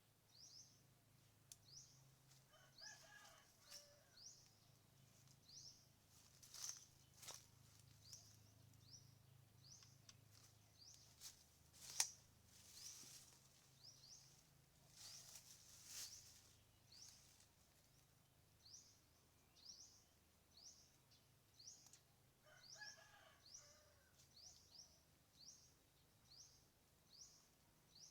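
Quiet outdoor ambience: a small bird repeats a short, high, rising chirp about once a second. A faint longer call sounds twice, a few seconds in and again near the end, and a few sharp clicks come in the middle, the loudest about halfway.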